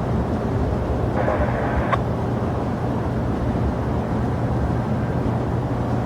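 Steady low rumble of jet aircraft engines at an airport. A short burst of radio hiss ends in a click about two seconds in.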